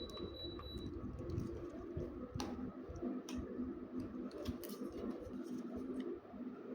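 LG air conditioner running that is not cooling, with a steady, slightly pulsing hum and scattered light clicks. A faint high whine stops about a second in.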